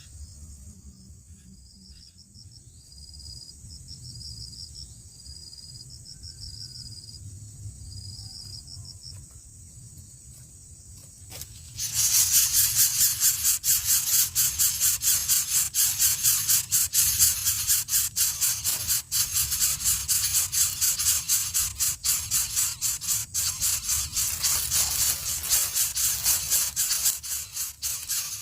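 Faint, regularly repeated high insect chirps. About twelve seconds in, a loud, high-pitched insect buzz with a rapid pulse starts suddenly and keeps going.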